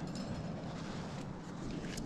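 Wind on the microphone: a steady low rumble and hiss, with a few faint clicks.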